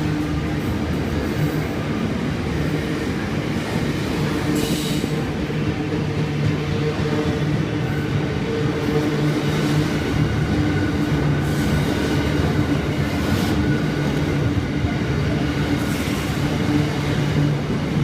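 Very long intermodal freight train's wagons rolling past, a steady rumble and hum on the rails, with a few brief higher-pitched hissing flares now and then.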